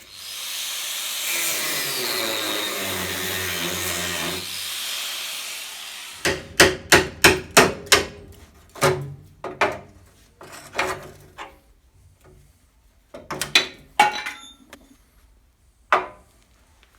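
A power tool whirs for about five seconds and winds down with a falling pitch. Then comes a series of hammer blows, quick at first and then more spaced out, as a hammer works on the steel chassis rail.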